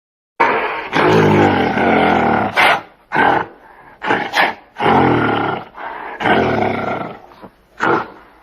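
Gorilla calling in a string of deep roars and grunts: one long call lasting over two seconds, then several shorter ones.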